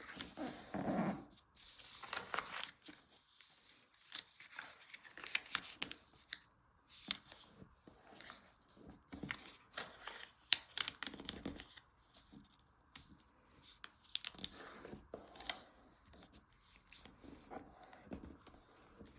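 Sheet of origami paper being folded and creased by hand: irregular rustling and crinkling with sharp crackles as the folds are pressed down.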